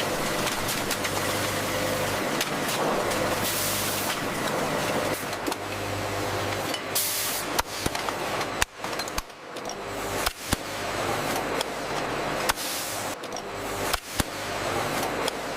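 Factory processing machinery running: a steady mechanical hum and rush, with sharp clicks and knocks at irregular intervals in the second half.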